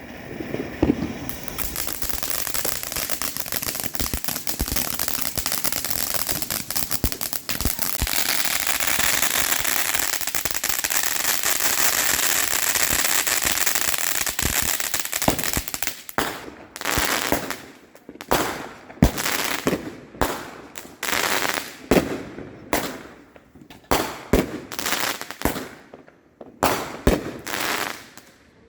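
Fireworks going off: a long run of dense, continuous crackling, then from about halfway a string of separate bangs, a little more than one a second, each trailing off.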